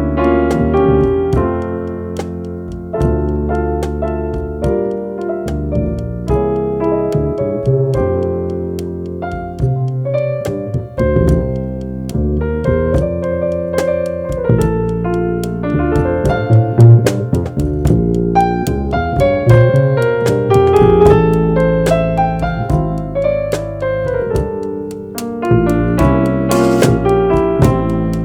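Live jazz trio playing: keyboard with an electric-piano sound carrying chords and melody over a moving bass line, with light drums.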